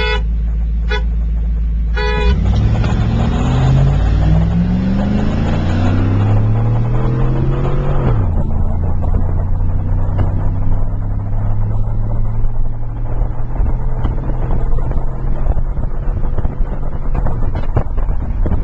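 Three short horn toots, then a truck's engine accelerating hard, its pitch climbing for about six seconds. The pitch drops sharply about eight seconds in, and the engine then runs at a steady, even speed.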